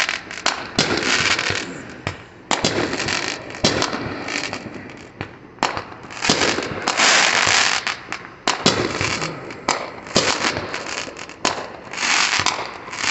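Fireworks going off continually: repeated sharp bangs and cracks, mixed with stretches of hissing, crackling bursts.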